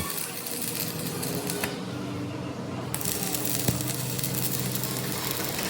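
A machine running with a steady hum, with a sharp metallic click a little over three and a half seconds in.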